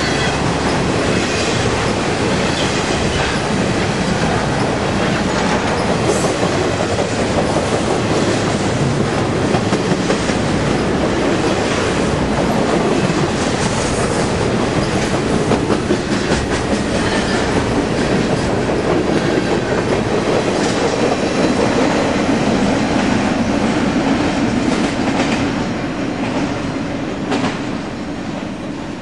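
Norfolk Southern intermodal freight train's cars, stacked containers and trailers, rolling past at close range, with wheels clicking steadily over the rail joints. The sound falls away near the end as the last car passes.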